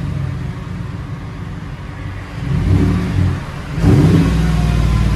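Engine exhaust through a 22-inch-body Magnaflow muffler, with a deep tone. It idles, is revved up about two and a half seconds in and eases back, then is revved again near the end and held.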